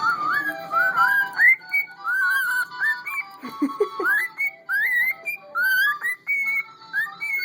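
Cockatiel whistling a string of short, rising, swooping notes over tin whistle music, which holds steadier notes underneath.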